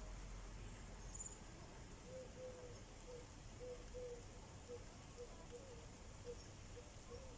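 Quiet outdoor ambience: a faint low rumble, with a small animal call repeating two or three times a second from about two seconds in.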